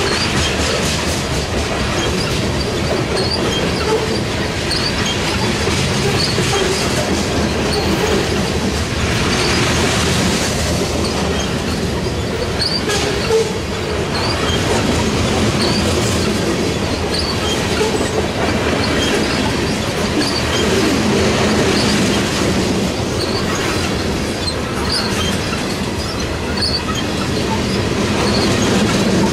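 Norfolk Southern freight train rolling past, its cars making a continuous loud rumble with short, high-pitched wheel squeals scattered throughout.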